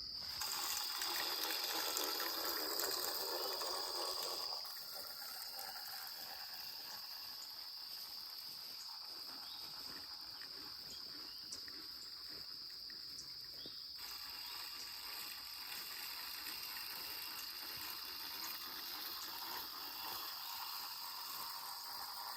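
Outdoor field ambience: a steady, high-pitched insect chorus, with a rushing sound like running water in the first four seconds or so that then drops away.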